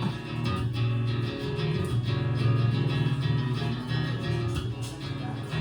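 Live band music: guitar playing an instrumental passage between sung verses, with a steady rhythm and a strong bass line underneath.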